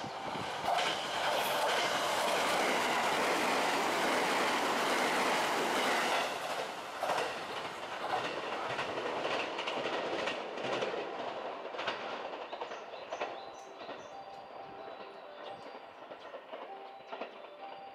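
JR West 287 series electric express train passing at speed: a loud rush of wheels on rails for about five seconds, then a rhythmic clickety-clack of wheels over the rail joints that fades away as the train recedes.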